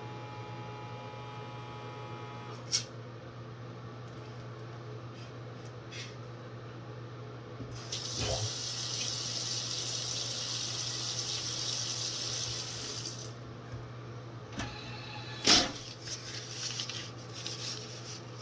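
Navage powered nasal irrigator running for about five seconds while its button is held, its suction pump drawing saline through the nose with a steady rushing, watery hiss that cuts off abruptly. Sharp clicks come before and after, the loudest about two seconds after the rush stops.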